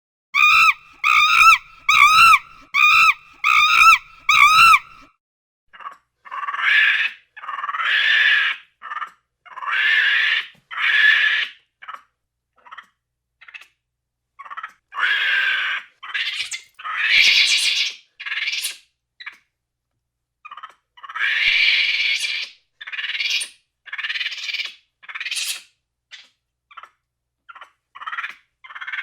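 Animal calls: a quick run of about eight short, wavering pitched cries, then a long series of harsh screeching calls of uneven length with short gaps between them.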